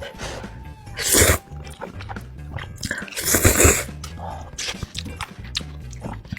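Close-miked eating sounds over background music: two loud, noisy bites and chews, one about a second in and a longer one around three seconds in, with quieter chewing between.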